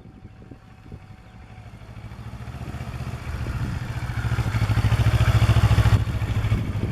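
Kawasaki Ninja 650R parallel-twin motorcycle engine riding toward the camera, its pulsing exhaust note growing steadily louder and loudest about five to six seconds in, then easing slightly as it passes.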